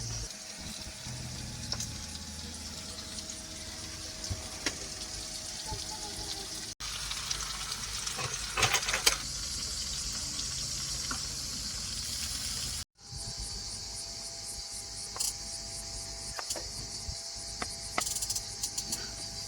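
Insects chirring steadily on a high pitch, breaking off abruptly twice.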